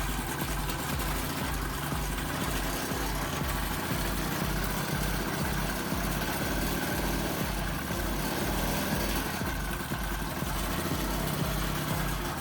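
Motorized bicycle engine running steadily at a fast idle, with a regular low pulsing.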